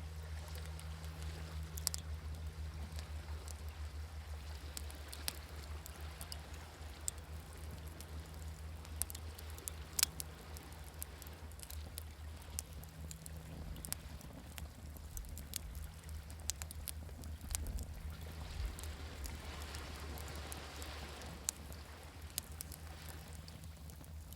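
Campfire crackling, with scattered sharp pops, over the steady wash of sea waves; a wave surges up and falls back about two thirds of the way in.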